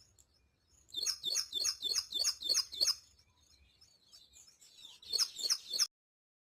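A bird calling in a quick series of sharp, repeated chirps, about four a second. There is a pause, then a shorter run of three chirps that cuts off suddenly.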